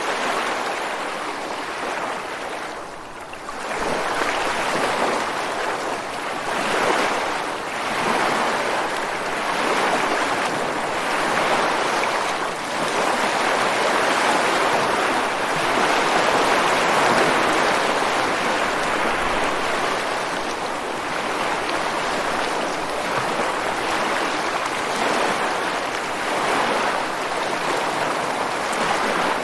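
Ocean surf washing ashore in a continuous rush that swells and eases. There is a short lull about three seconds in, after which the waves build again.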